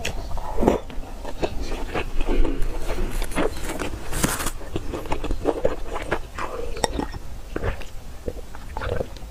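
Close-miked mouth sounds of eating youtiao soaked in soy milk: soft, wet chewing with many small clicks and smacks, and a brief louder hiss about four seconds in.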